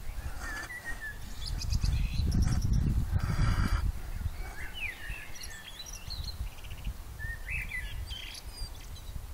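Small birds chirping in short calls several times, over a low, uneven rumble.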